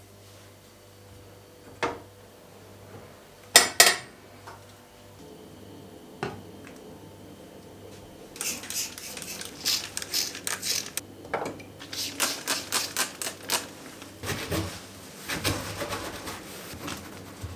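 A few sharp knocks, then from about halfway a run of quick scraping and rubbing strokes against a hard surface, over a low steady hum.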